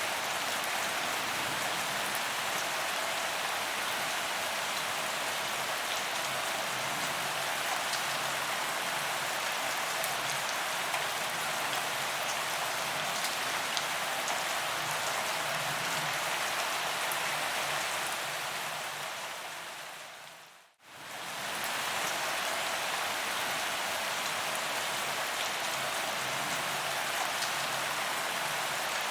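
Steady rain falling on a paved promenade: an even hiss of drops hitting the ground, with faint scattered patters. About two-thirds of the way through, the sound fades briefly to silence and fades straight back in.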